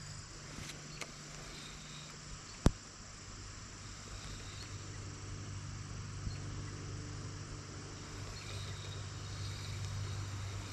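Steady outdoor chorus of insects such as crickets over a low steady hum, with one sharp click about two and a half seconds in.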